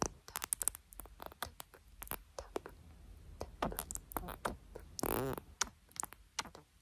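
Close-miked ASMR hand sounds: a run of quick, soft clicks and taps from fingers, with a longer rub of the hands about five seconds in.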